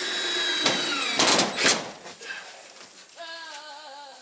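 Cordless drill running in short bursts while driving screws into wood for about two seconds, then a goat bleats once, a wavering call of about a second near the end.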